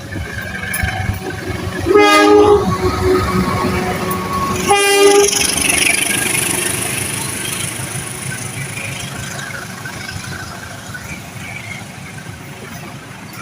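Train passing with its horn sounded twice, a short blast about two seconds in and a shorter one near five seconds. The rumble and clatter of the train run under the horn and fade slowly after it.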